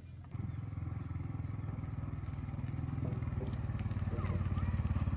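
Motorbike engine idling nearby with a steady, fast putter. It comes in suddenly a moment in.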